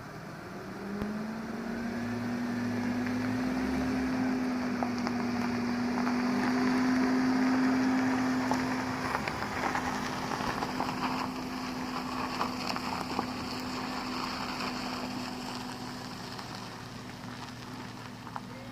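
Jaguar X-Type 2.1 V6 engine running steadily through the exhaust system from the 2.5 V6 model, with a steady hum that grows a little louder towards the middle and eases off later.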